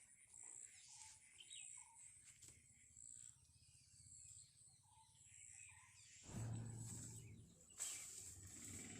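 Faint jungle ambience: a high-pitched call pulses about once a second, with a few short bird chirps. About six seconds in, a low rustling or handling noise starts, with a sharp click a little later.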